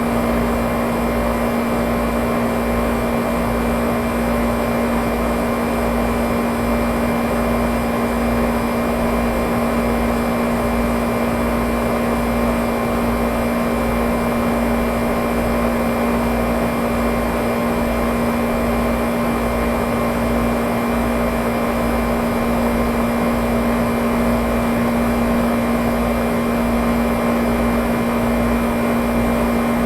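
Noisy air conditioner running with a loud, steady hum on one constant tone over a throbbing low rumble, the kind of noise that marks a unit in need of repair.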